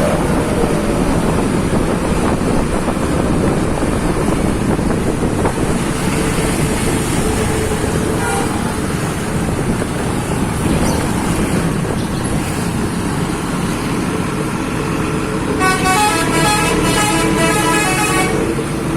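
Bus engine running loud through an aftermarket exhaust, and about three-quarters through, a multi-tone bus horn plays a short pulsing run of notes for about three seconds.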